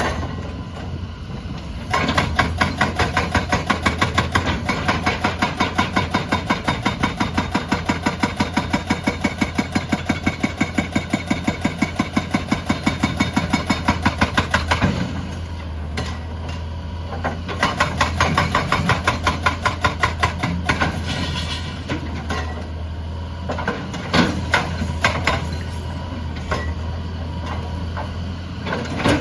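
Excavator's hydraulic breaker hammer pounding in a fast, even run of blows, about four or five a second, over a steady diesel engine hum. The blows stop about halfway through, start again in a shorter run, and give way to a few scattered knocks near the end.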